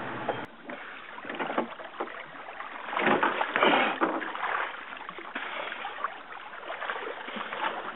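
Water splashing and knocking against a small boat's side as an injured seagull is lifted out of the sea, with irregular bursts that are loudest about three seconds in. A steady motor hum cuts off about half a second in.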